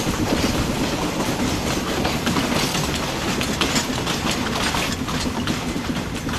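Narrow-gauge train of coal wagons rolling by, its wheels clicking over the rail joints in an uneven run of clacks over a steady rumble.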